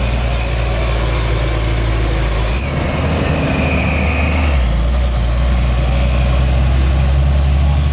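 Heavy truck engine running loudly, with a high whine above it. The engine note and the whine shift about two and a half seconds in and return about two seconds later.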